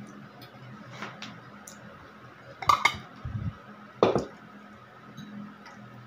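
Cutlery and dishes clinking and knocking during a meal: a few scattered light clicks, then a close cluster of sharp knocks near the middle and another about four seconds in. A steady low hum runs underneath.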